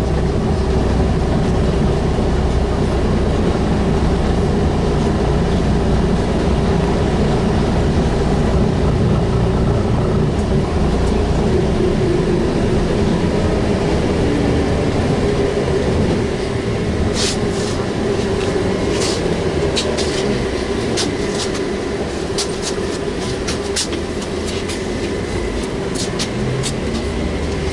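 Inside a VMZ-5298.01 trolleybus under way: steady running and road noise with a constant hum from the electric drive. About sixteen seconds in it gets a little quieter, and from then on irregular sharp clicks and rattles sound over it.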